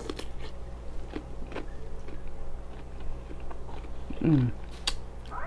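Close-miked biting and chewing of a raw cucumber spear: scattered crisp, wet crunches and mouth clicks. About four seconds in comes a short hummed "mm" that falls in pitch, over a steady low hum.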